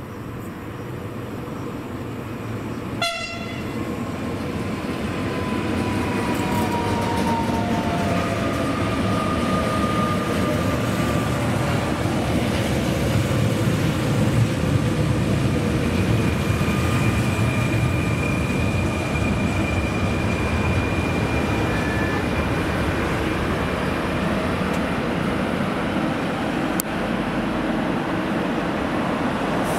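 Fertagus series 3500 double-deck electric multiple unit running in and braking to a stop, growing louder over the first few seconds. There is a short horn toot about three seconds in, then a whine that falls slowly in pitch as it slows, and a thin high squeal near the middle.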